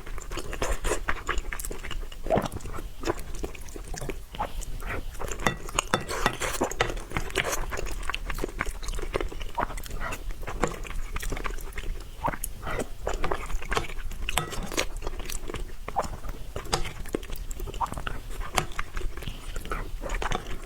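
A person eating: chewing and biting food, with many quick wet mouth clicks at an irregular pace.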